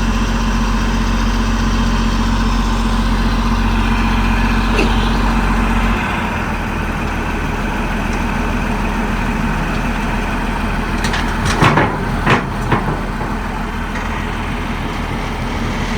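Caterpillar D6R XL bulldozer's diesel engine running steadily, its deep low note dropping away abruptly about six seconds in. A few sharp metallic clanks come a little past the middle.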